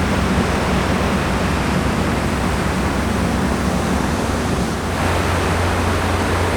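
Steady rushing noise of wind and water around a slowly moving cruise ship, over a low, steady machinery hum.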